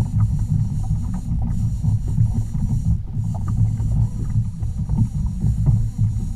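Low, uneven rumble of a fishing kayak at sea, water moving against the hull and wind on the microphone, with small scattered clicks.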